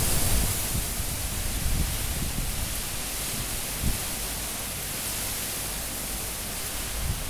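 Cyclone-force wind blowing as a steady hiss over a low rumble, easing somewhat through the middle, with one brief low gust about four seconds in.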